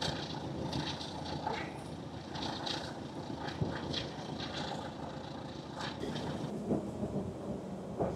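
Passenger train of vintage Schindler coaches running along the line, heard through an open carriage window: a steady rumble of wheels on rails with scattered light clicks and knocks.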